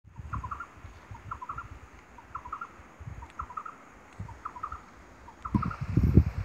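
A bird calling, a short phrase of three or four quick notes repeated about once a second, over a low rumble on the microphone that grows louder near the end.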